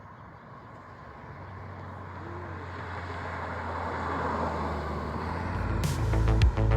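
A passing car's engine and tyre noise growing steadily louder as it approaches, with a steady low hum underneath. About six seconds in, electronic dance music with a heavy bass beat comes in and drowns it out.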